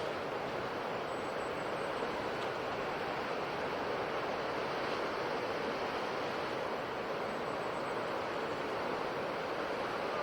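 Ocean surf washing on a shore in a steady, unbroken rush, with no single wave standing out.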